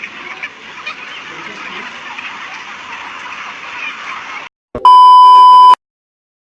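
A loud, steady, high electronic beep lasting about a second, after a few seconds of hissy background noise with scattered small clicks that cuts off abruptly.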